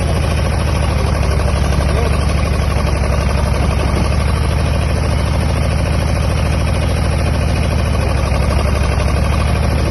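Farm tractor's engine running steadily at an even, low pitch, with no revving or change in speed.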